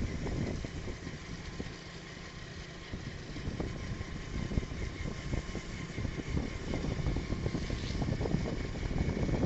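A vehicle travelling on a rainy trip: a steady low rumble with many small crackles and ticks, and a faint high whine.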